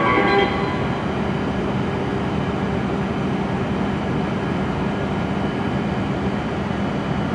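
The last notes of a platform departure melody, ending about half a second in, then the steady hum of an E7-series Shinkansen train standing at the platform, with a constant low tone.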